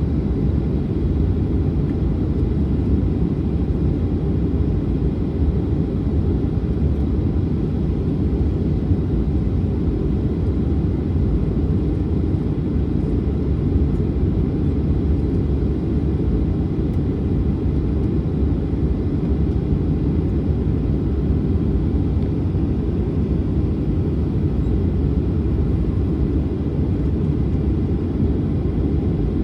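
Steady low rumble of a Boeing 737-900's CFM56-7B jet engines, holding an even level with no rise or fall.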